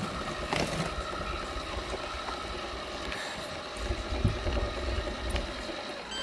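Roomba robot vacuum running, heard from a phone mounted on top of it: a steady hum, with a low rumble coming in about four seconds in.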